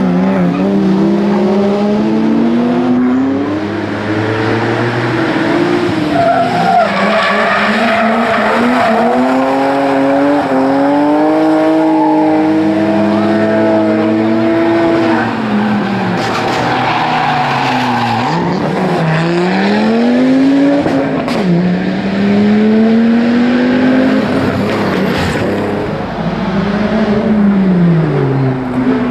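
Course-opening cars' engines on a hillclimb, the revs climbing and dropping again and again as the cars accelerate and change gear.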